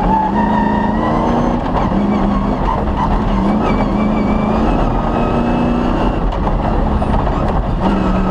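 Cross-country rally car's engine running hard under load over rough ground, with dense tyre and chassis noise. The engine note holds steady, then briefly drops away and picks up again every second or two as the driver lifts off and shifts.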